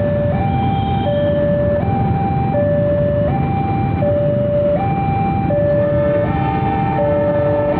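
Railway level-crossing warning alarm sounding a steady two-tone hi-lo pattern, switching pitch about every three-quarters of a second, over a low rumble of vehicles. Near the end further tones join in.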